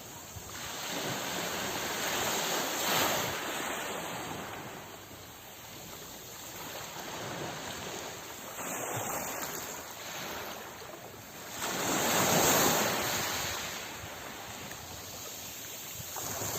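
Sea waves washing on a shore: a steady surf wash that swells into a breaker about three seconds in and a louder one about twelve seconds in.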